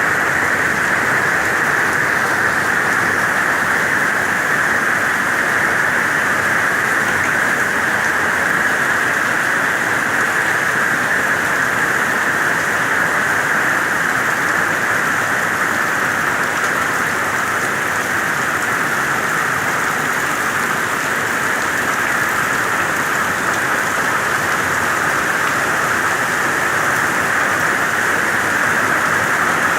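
Heavy tropical-storm rain falling steadily, a dense even hiss of rain on the ground and puddles.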